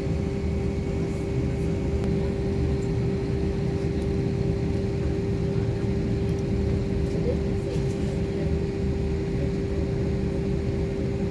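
Steady airliner cabin noise in flight: a low engine-and-airflow rumble with one steady hum over it.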